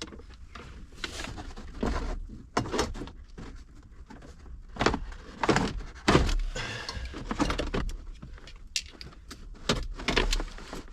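Irregular clicks, knocks and rustling as hands work plastic interior trim and wiring inside a vehicle.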